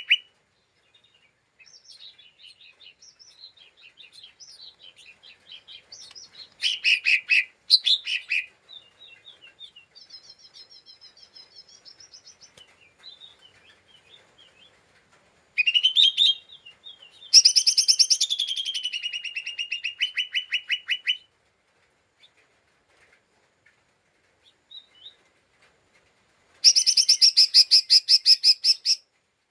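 Cucak ijo mini (lesser green leafbird) chattering in its 'ngeriwik' style, the call of an agitated bird. It gives three loud bursts of fast, rattling repeated notes: one about seven seconds in, a longer run of about five seconds in the middle, and another near the end, with softer scattered twitters between.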